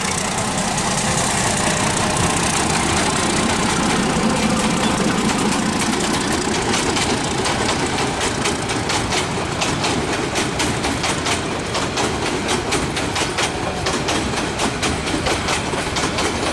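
Diesel locomotive passing close by with its engine running, then the coaches of a long passenger train rolling past, their wheels clacking over the rail joints in a steady run from about six seconds in.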